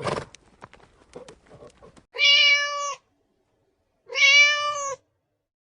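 Domestic cat meowing twice, each meow a clear pitched call about a second long, the two about two seconds apart.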